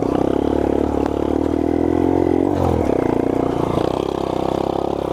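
A 1986 Honda 50R minibike's small single-cylinder engine running as it is ridden, its revs dipping briefly about halfway through and then climbing again.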